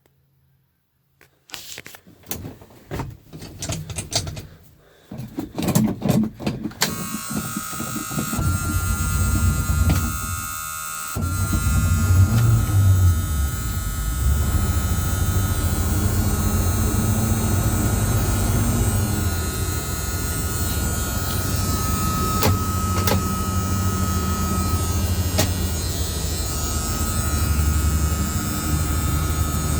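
A 1980 Chevrolet engine is cranked over by the starter from about a second and a half in. It catches a few seconds later, stumbles briefly, then settles into a steady cold idle. A steady high warning buzzer sounds along with it, which the owner guesses is the oil pressure warning.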